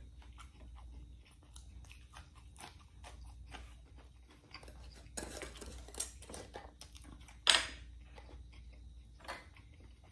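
Close-up chewing and mouth sounds of a man eating pork adobo and rice with his hands, with a sharp clack a little past the middle as the metal lid of a glass pickle jar is opened and set down.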